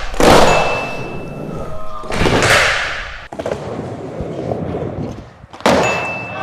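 Skateboard thudding and clattering on a hard floor during flip-trick attempts: a loud hit near the start, a noisy rush about halfway through, and another hit shortly before the end with a brief ring after it.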